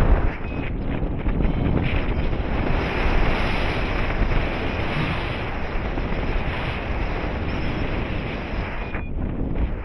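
Airflow of a paraglider in flight rushing over the microphone: a steady, loud wind noise that buffets low down.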